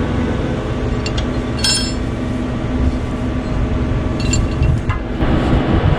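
Large farm tractor's diesel engine running steadily, a low rumble, with a brief metallic clink about one and a half seconds in.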